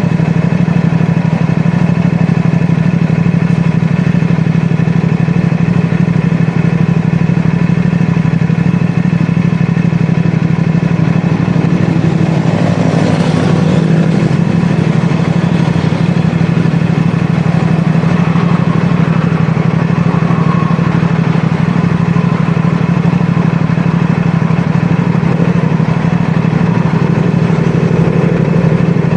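CFMoto 450SR S motorcycle's parallel-twin engine running at a steady pitch, with a brief whoosh about twelve seconds in.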